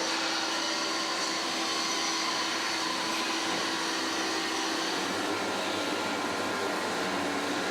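Steady hissing machine noise, like a fan or extractor running, with a faint hum that fades out about five seconds in.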